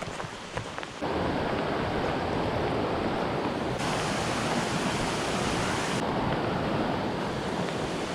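Steady rushing of a small mountain stream in good flow. It comes in louder about a second in, and its hiss is brighter between about four and six seconds in.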